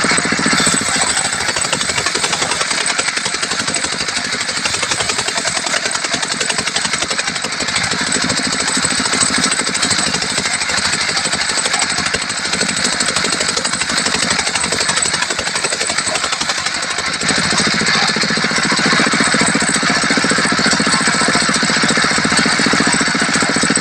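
Diesel-powered mobile circular sawmill running and cutting through a tembesu hardwood log: a loud, steady mix of saw and engine noise. The engine's low note comes up more strongly about 17 seconds in.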